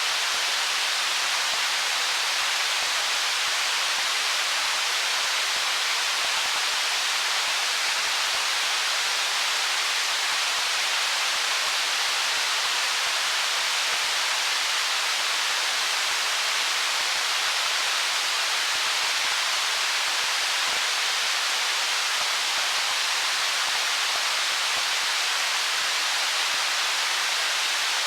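Water of a stream flowing among stones: a steady, even hiss that does not change.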